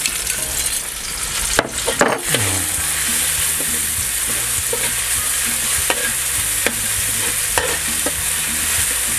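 Chopped red chillies and pounded garlic sizzling in a little oil in a wok, with a metal spatula scraping and tapping against the wok as they are stirred: the sauté that makes the chilli and garlic fragrant. The sizzle is steady, with the spatula strokes coming now and then, a burst of them about two seconds in.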